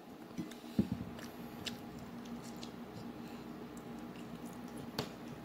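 Close-up eating sounds of a taco being bitten and chewed: soft wet smacks and scattered small clicks of the mouth, with a sharper click about a second in and another near the end.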